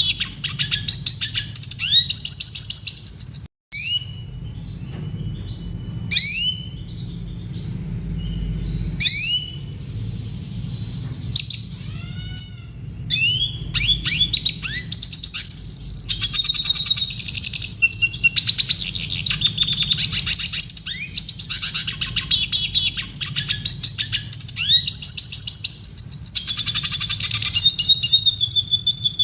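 Red siskin singing: a fast, varied song of chirps, twitters, trills and short rising whistles. The song breaks off for an instant about three and a half seconds in.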